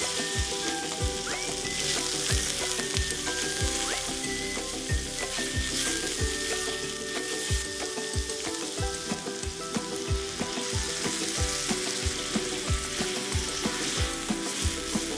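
Thin-sliced pork stir-frying in an iron frying pan, sizzling steadily as it is stirred with chopsticks.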